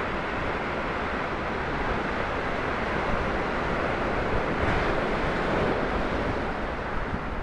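Ocean surf: a steady wash of breaking waves that swells up about five seconds in.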